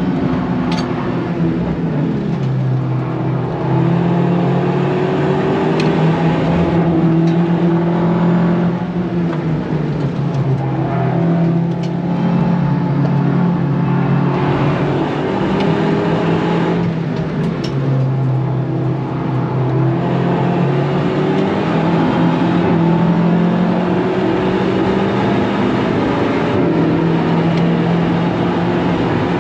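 Car engine heard from inside the cabin on a fast track lap, accelerating hard through the gears: its pitch climbs and drops back at each upshift, again and again, with road and wind noise underneath. Around the middle it eases off for a corner and then pulls up through the gears once more.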